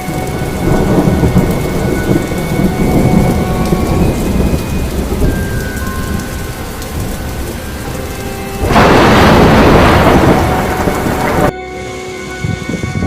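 Thunderstorm: thunder rumbling over heavy rain. About nine seconds in, a loud surge of rain noise takes over for a few seconds, then cuts off suddenly.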